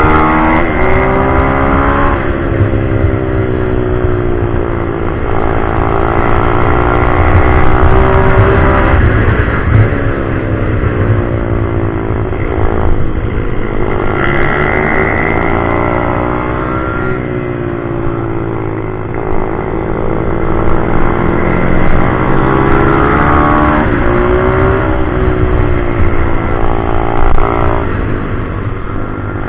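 Single-cylinder four-stroke pit bike engine being ridden hard, its pitch climbing and dropping again and again as it accelerates and backs off, with sudden drops every few seconds.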